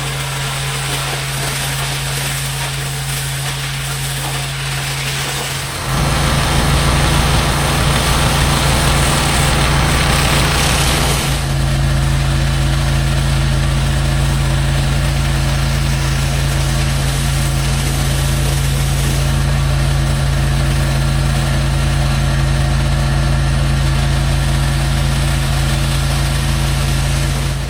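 Pressure-washing equipment running: a steady engine hum throughout. About six seconds in it gets louder, with a hiss of spray for about five seconds, then it settles into a steady loud drone.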